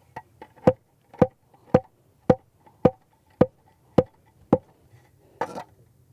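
Plastic mallet tapping a retaining-wall block down to set it level: two light taps, then eight even blows about half a second apart. A brief scuffing noise follows near the end.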